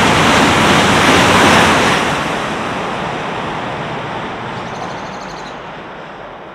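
Southeastern Class 395 high-speed electric train passing at speed, a loud rush of air and wheels on rail. It peaks in the first two seconds and then fades steadily as the train runs away.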